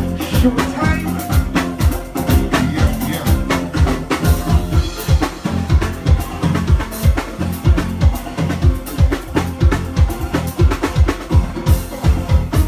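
Live band playing an uptempo soca groove: drum kit and bass guitar with a steady, fast beat, without vocals.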